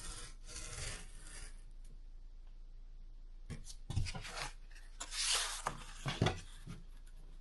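Cardboard being worked by hand: rubbing and scraping strokes, one longer scrape about five seconds in, with a few light knocks.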